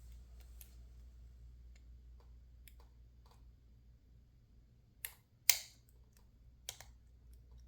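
Lock pick and tension tool working the pins of a PacLock 410 Pro padlock: faint scattered metal ticks, then sharper clicks about five seconds in, with one loud click just after and a smaller one near the end.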